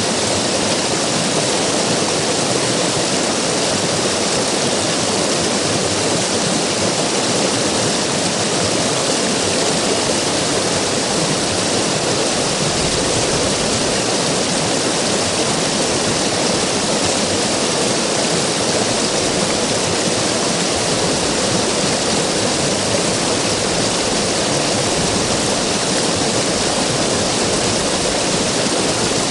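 River water rushing and splashing, a steady, full roar of flowing water.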